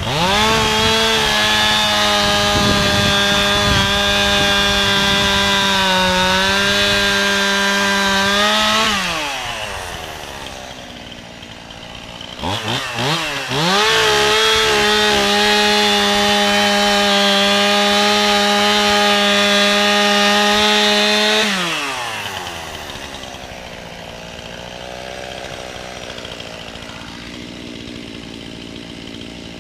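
Two-stroke chainsaw run at full throttle for about nine seconds, its pitch sagging slightly as under cutting load. It drops back to idle, is blipped a couple of times, then held wide open for about seven seconds more before settling back to a steady idle.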